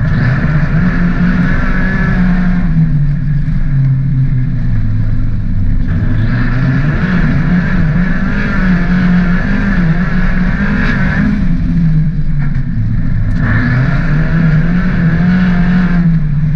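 The 1.8-litre 20-valve four-cylinder engine of a Mk3 VW Golf race car, heard from inside its stripped, caged cabin, revving up and down under hard driving. The engine note rises and falls through the gears, easing off twice for a few seconds before coming back on full throttle.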